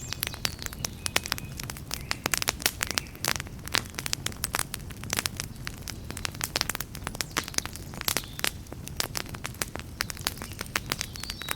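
Campfire burning: dense, irregular crackling and sharp pops of burning wood over a steady low rumble of the flames.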